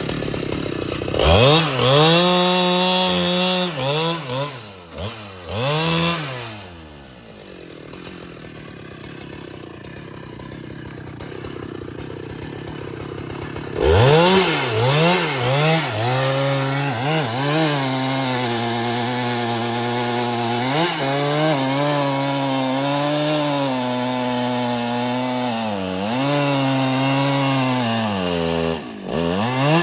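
Husqvarna 395XP two-stroke chainsaw revving to full throttle and cutting wood, its pitch sagging and recovering under load. About seven seconds in it drops back to a low idle for several seconds, then revs up and cuts again, with the throttle briefly let off near the end.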